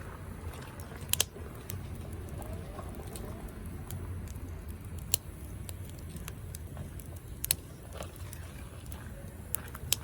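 Wood fire burning, with a low steady rumble and a few sharp, irregular crackles and pops from the burning wood.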